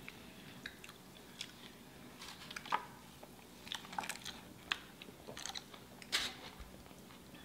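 Close-up eating sounds: a burger being bitten and chewed, heard as soft, scattered wet clicks and crackles.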